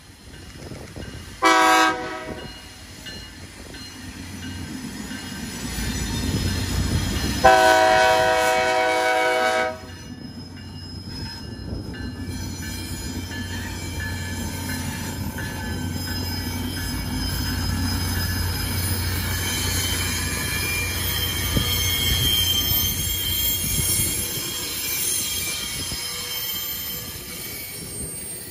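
Tri-Rail diesel-electric locomotive sounding its air horn, a short blast about a second and a half in and a longer two-second blast about eight seconds in. Then the locomotive rumbles past and its double-deck coaches roll by with wheel and rail noise.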